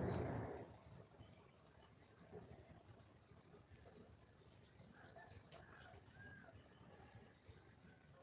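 A wild junglefowl hen gives a short, low call right at the start. Faint, scattered high chirps of small birds follow.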